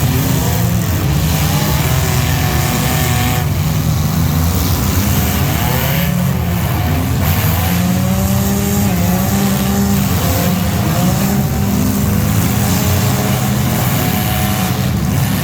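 Race engines of mini trucks, vans and SUVs running hard on track, a steady loud mix whose pitch keeps rising and falling as the vehicles accelerate and lift.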